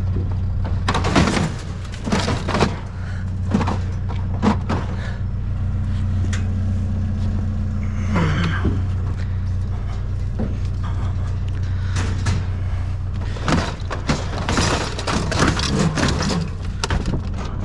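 Vehicle engine idling steadily, with irregular clunks, knocks and scrapes of plastic printers being handled and loaded into a truck bed.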